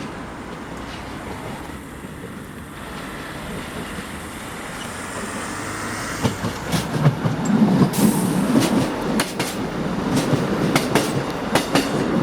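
Regional passenger train pulling away from the station: a steady rumble that grows louder about halfway through, with quick clicking of the wheels over rail joints as it passes.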